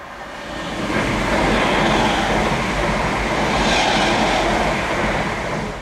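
Electric multiple-unit passenger train passing at speed over a level crossing: a loud rush of wheels on rail and air that builds over the first second, holds, and drops away near the end.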